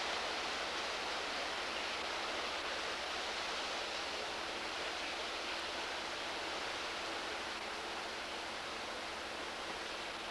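Steady rushing hiss of the strong wind ahead of a hurricane, at about 30 miles an hour.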